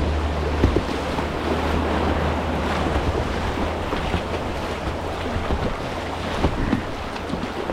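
Rushing whitewater of a river rapid, heard from a kayak, with scattered sharp splashes of kayak paddle strokes. A low rumble of wind buffeting the microphone is strongest in the first second, then eases.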